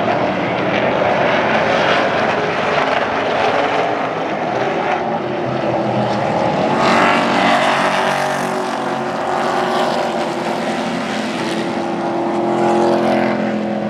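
Several racing trucks' engines running at speed around the track, their engine notes overlapping, swelling louder as the pack passes about halfway through and again near the end.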